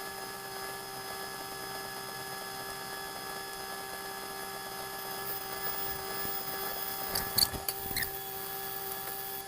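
Steady mechanical hum of a trawler's onboard machinery, holding an even pitch, with a few sharp clicks and knocks near the end.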